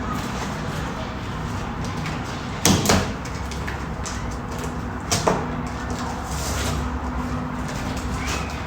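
Two short knocks, about three and five seconds in, over a steady low hum.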